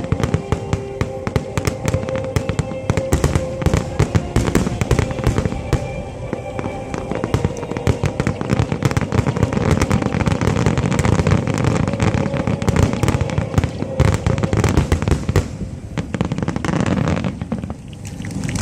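Dense barrage of aerial fireworks: many rapid, overlapping bangs and crackles with a deep rumble underneath, easing off briefly near the end.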